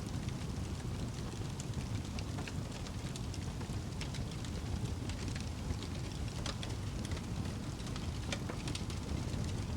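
Wood fire burning in a fireplace: a steady low rush with scattered sharp crackles and pops, about one a second.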